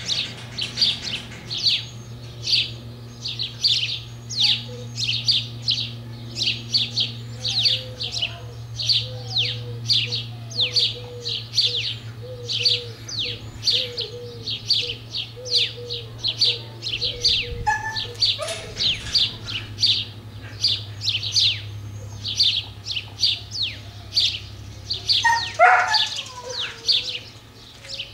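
A small bird chirping over and over at an even pace, about two high chirps a second. Faint short whimpers come from the kennel dogs, and one dog gives a brief falling whine near the end.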